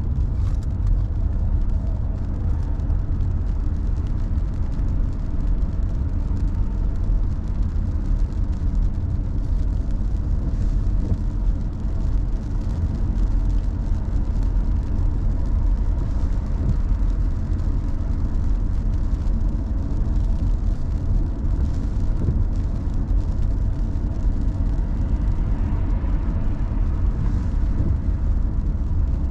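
A car driving along steadily, its engine and tyre rumble low and even throughout.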